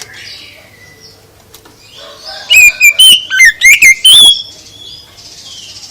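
A songbird singing: a quick run of loud, clear whistled notes, some gliding up and down in pitch, from about two and a half to four and a half seconds in, with fainter chirps before and after.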